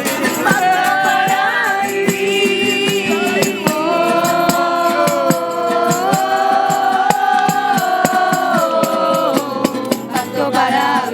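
Several voices singing a wordless melody in long held notes, accompanied by a rattle shaken in a steady beat.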